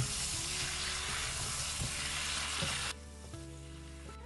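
Prawns sizzling in hot oil as they are stir-fried in a pan, with the spatula clacking against the pan. The sizzle cuts off suddenly about three seconds in, leaving faint background music.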